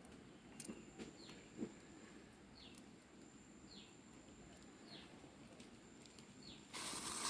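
A bird calling a short, falling note, repeated about five times at roughly one-second intervals, faint against quiet outdoor background with a few light clicks. A brief louder rustling noise comes near the end.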